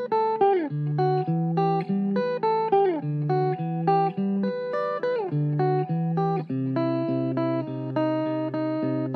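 Background music: plucked guitar playing a melody of separate notes, some of them bent or slid in pitch.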